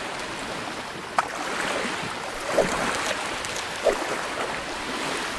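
Steady rushing water sound like waves or a flowing stream, with three short plinks spaced about a second and a half apart.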